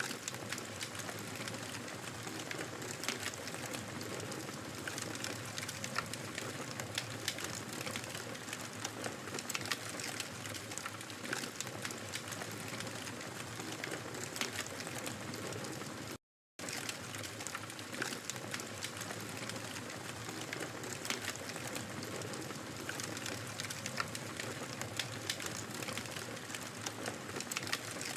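Wood fire crackling in a fireplace: a dense, irregular run of small sharp crackles and pops over a soft hiss. The sound drops out to silence for a split second about sixteen seconds in.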